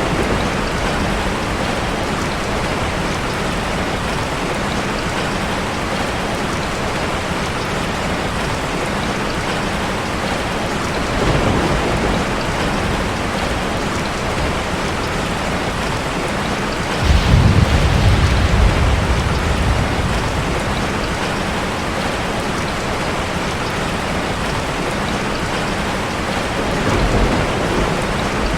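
Steady rushing water of a waterfall in a fire-and-water ambience mix, with low rumbling swells about a third of the way in, a stronger one past the middle, and another near the end.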